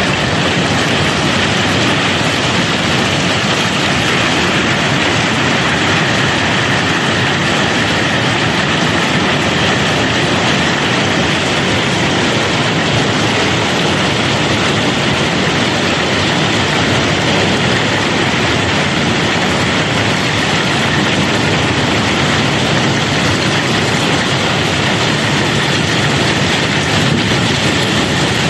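Cobblestones pouring steadily during barge unloading, a loud, continuous dense rattle of tumbling rocks with no break.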